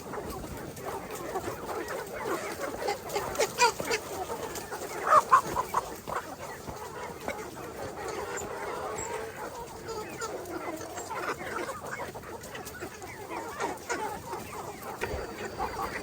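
A flock of chickens clucking together in a continuous overlapping chatter, with a few louder clucks about three and a half and five seconds in.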